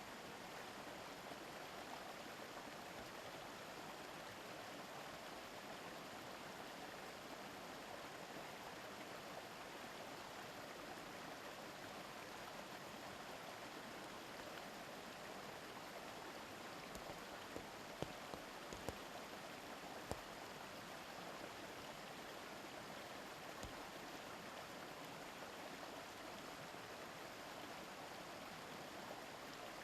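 A river babbling steadily, with a few brief clicks a little past the middle.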